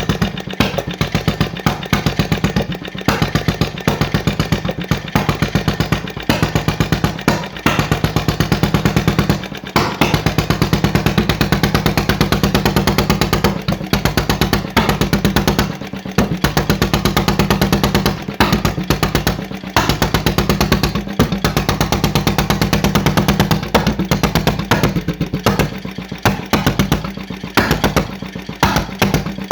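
1934 Deutz MA 608 stationary engine running with a fast, even string of exhaust beats, broken every few seconds by brief gaps where the beats drop out.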